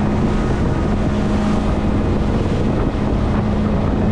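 Fishing boat's engine running with a steady low hum, wind rushing over the microphone.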